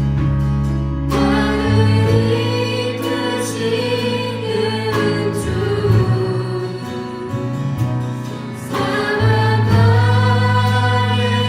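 A praise band and singers performing a contemporary Christian worship song: group vocals over sustained keyboard-like chords and a steady bass line.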